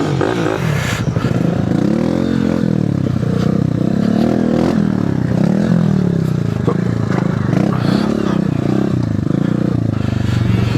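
Mini bike engine revving up and down as it is ridden off-road, its pitch rising and falling over and over with throttle and gear changes.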